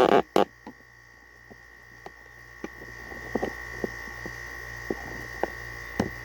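Haier 5,000 BTU window air conditioner with its compressor running: a steady low hum with a thin steady whine above it and scattered light clicks. A brief loud knock comes at the very start, and the hum grows louder over the first few seconds.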